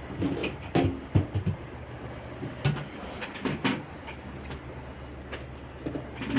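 Food containers and jars knocking and clattering as they are handled and set down while a refrigerator is emptied, over a steady low hum.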